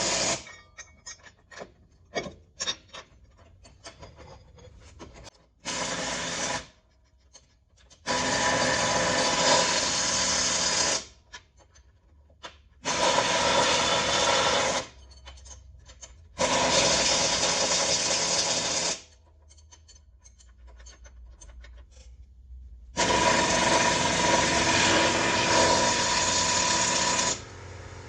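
A power tool run in five bursts of two to four seconds each, each starting and stopping abruptly, with small clicks and knocks in the pauses between.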